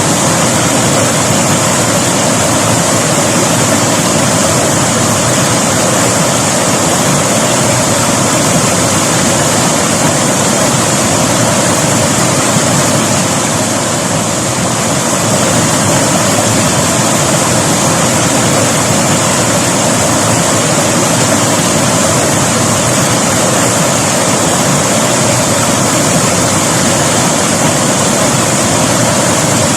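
River water rushing steadily over rocks, a loud and even hiss of flowing water.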